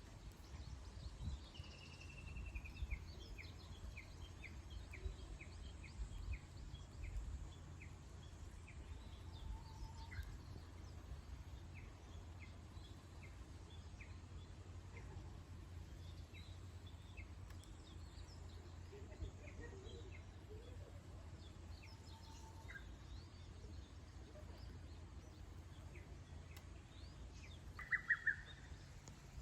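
Wild songbirds singing faintly over a steady low background rumble. One bird gives a long run of short, evenly spaced high notes for several seconds, other birds chirp here and there, and a brief louder call comes near the end.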